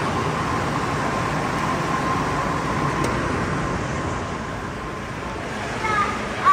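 Zoo train passing by: a steady rumble with a thin high whine, loud at first and easing off over the last couple of seconds.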